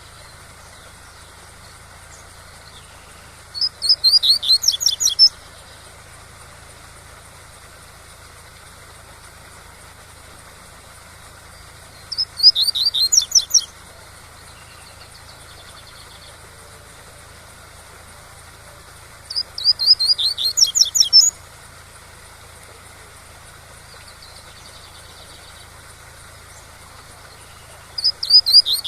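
Double-collared seedeater (coleiro) singing its 'tui-tui' song: four phrases of rapid, high whistled notes, each about a second and a half long and roughly eight seconds apart, the last cut off at the end. A steady waterfall rush runs beneath.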